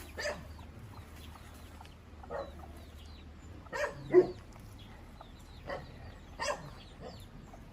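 A dog's short barks now and then over a low background, about seven brief calls, the loudest about four seconds in.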